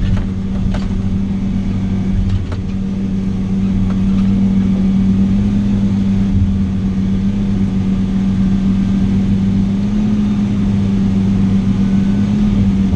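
Diesel engine of a logging machine or truck running at a steady speed, a constant low drone with a strong hum, heard from close by. A few light clicks come in the first few seconds.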